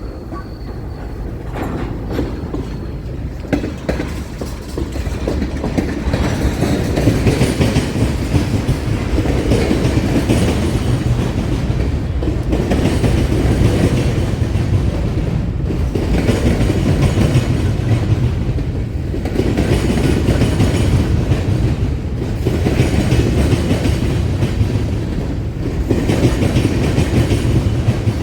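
A train rolling past close by: a heavy rumble with the clickety-clack of wheels over the rail joints. It builds over the first several seconds, then holds steady, easing off briefly every few seconds as the cars go by.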